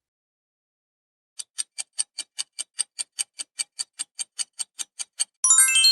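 Countdown timer sound effect: clock-like ticking, about five ticks a second, starting about a second and a half in, then a bright chime of stepping tones near the end that marks time up.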